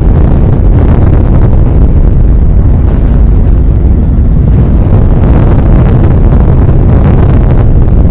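Very loud, continuous low rumble of a nuclear explosion's blast, a dense roar heaviest in the bass that holds steady without a break.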